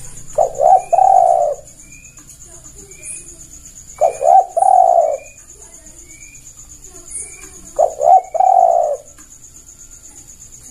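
Spotted dove (tekukur) cooing: three phrases about every four seconds, each two short notes followed by a longer drawn-out coo. A steady high trill and faint short chirps run behind it.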